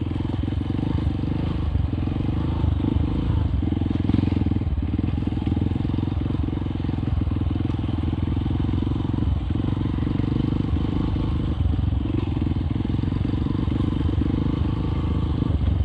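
Honda CRF150L single-cylinder four-stroke engine running through its aftermarket exhaust at steady low revs while the bike is ridden slowly, with a deep, evenly pulsing exhaust note.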